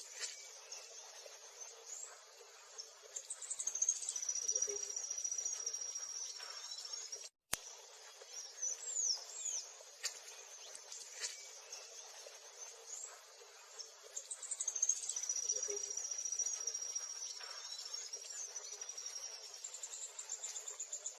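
Songbirds chirping with quick high notes and short sweeping calls, twice holding a long steady high trill. The sound cuts out for a moment about seven seconds in.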